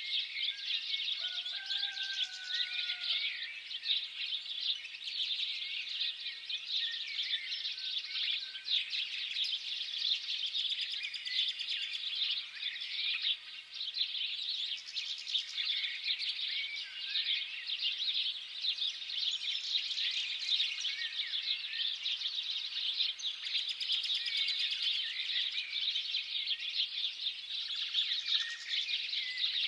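Many small birds chirping together in a dense, continuous chorus of quick high chirps. About a second in, one longer, slightly falling whistle rises above the chatter.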